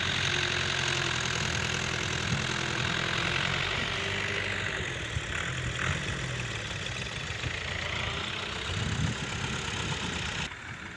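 Diesel tractor engine running steadily, a low even hum with mechanical clatter; the sound drops off sharply near the end.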